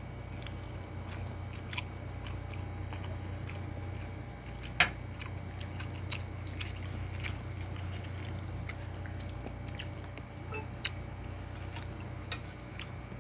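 Close mouth sounds of people chewing and eating: scattered small wet clicks and lip smacks, with one louder click about five seconds in, over a steady low hum.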